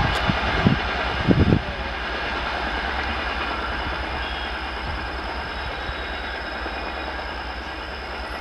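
Express passenger train running away at speed: wheels knock sharply over the rail joints several times in the first second and a half, then the coaches' steady rumble slowly fades.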